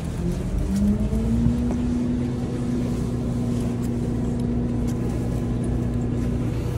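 A vehicle's engine running with a steady hum over a low rumble; its pitch rises about a second in and then holds level.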